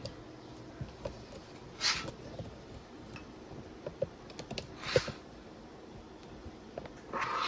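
Kitchen utensils and dishes being handled: scattered light clicks and taps, with a few short hissing rustles about two and five seconds in and near the end.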